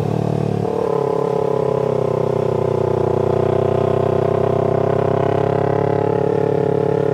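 Parallel-twin sport motorcycle engine running at steady cruising revs during a ride.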